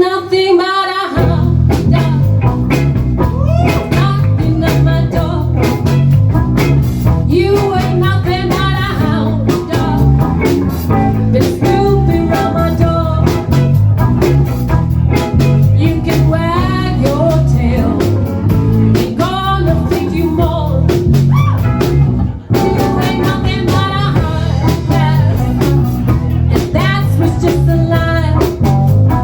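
Live blues band playing an instrumental break: a wavering lead line, most likely electric guitar, over steady bass and drums, with a brief stop about two-thirds of the way through before the band comes back in.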